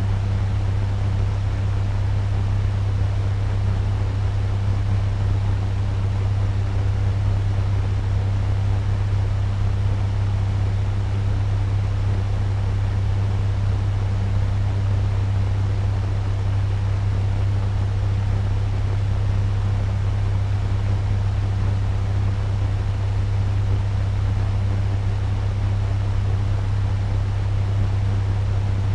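Turbo fan running steadily at medium speed: a strong, even low hum with fainter higher tones over a constant rush of air.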